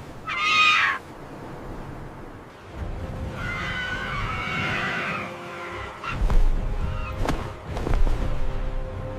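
A short, shrill screech just after the start, then a longer, quieter wavering cry a few seconds later. Both are laid over background music, with several sharp thuds in the second half.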